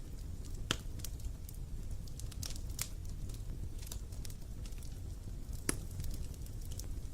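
Bonfire crackling: irregular sharp pops and snaps of burning wood over a steady low rumble, with the two loudest snaps about a second in and near the end.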